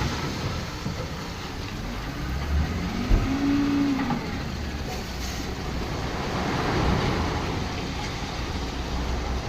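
Low rumble of a heavy vehicle, with a short pitched tone that rises and then falls about three seconds in.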